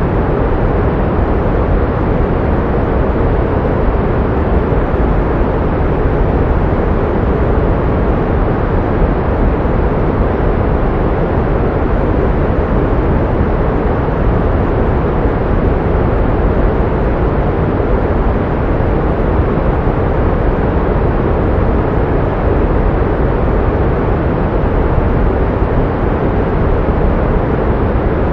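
Steady pink noise, an even hiss weighted toward the low end, with no change in level or pitch.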